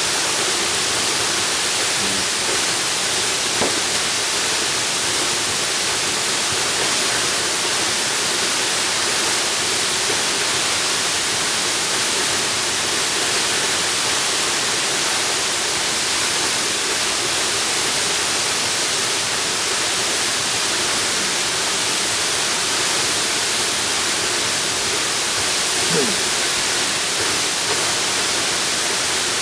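Jungle waterfall: a steady, unbroken rush of falling water.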